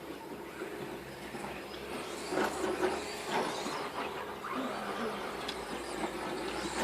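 Small electric motor of an RC car whirring steadily, with a few knocks and clatters about two to three and a half seconds in.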